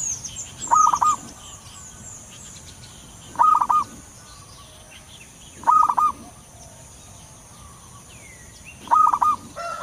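Zebra dove (perkutut) cooing: four short bursts of quick, rolling coo notes, roughly every three seconds. Small birds twitter faintly and high in the background, mostly in the first second.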